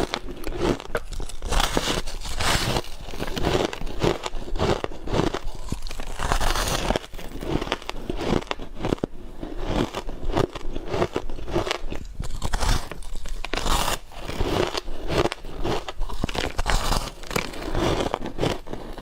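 Close-miked ice being bitten and chewed, a continuous run of irregular sharp crunches and crackles.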